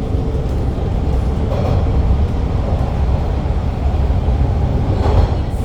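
Toronto subway train running through the tunnel, heard from inside the car: a steady, loud low rumble of wheels and motors on the rails.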